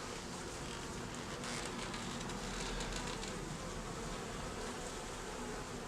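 Buckfast honeybees buzzing steadily around a frame lifted out of an open hive during an inspection.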